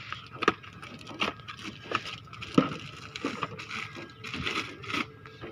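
Irregular light clicks and knocks of tools and parts being handled during work on a tractor, with two sharper knocks, about half a second and two and a half seconds in, over a faint steady hum.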